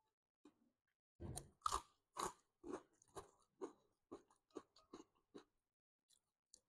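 A person chewing crunchy food, about two chews a second, fading away over a few seconds.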